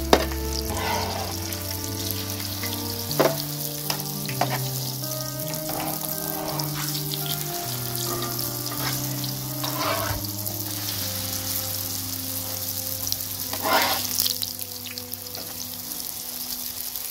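Filled dough pastries frying in hot oil in a shallow pan: a steady sizzle, with a few short knocks and scrapes of metal tongs against the pan as the pastries are turned.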